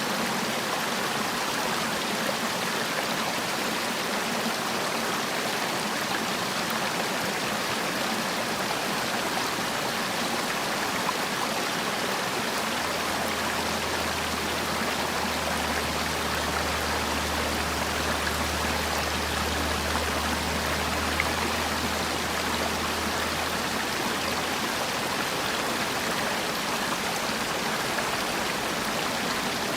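Mountain valley stream rushing steadily over rocks, an even water noise without breaks. A low hum comes in for about ten seconds in the middle.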